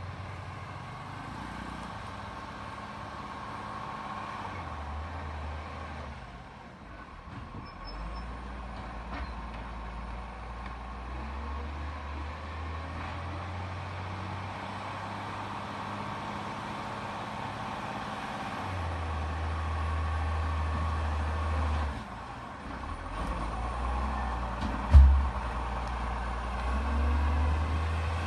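Garbage truck engine running, its low note swelling and dropping several times, with a single sharp thump near the end.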